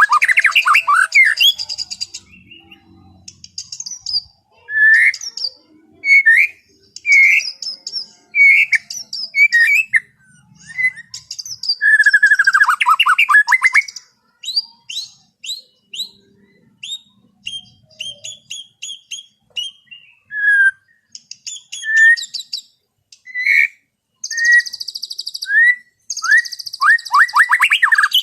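White-rumped shama singing in varied phrases. Clear whistled notes and quick downward-slurred notes alternate with bursts of rapid, dense chatter near the start and near the end, separated by brief pauses.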